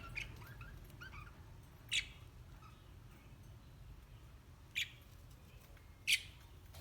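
Pet lovebirds chirping faintly: a few soft short chirps at first, then three sharp, brief high calls, about two seconds in, again near five seconds, and just before the end.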